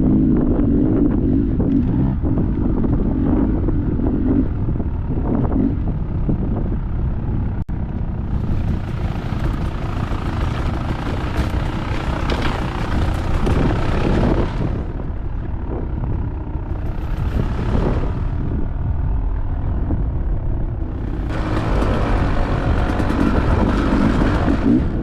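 Dirt bike engine running under changing throttle while riding a trail, with rushing noise twice swelling over it for several seconds.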